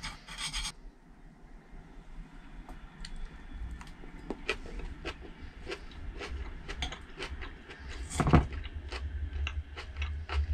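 Cutlery clinking and scraping on a plate as a meal is eaten, in many small irregular clicks, with one louder bump about eight seconds in. A low steady hum runs underneath.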